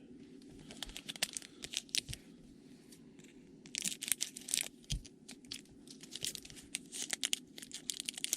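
Plastic packaging crinkling and crackling as trading cards are handled, in clusters of quick crackles.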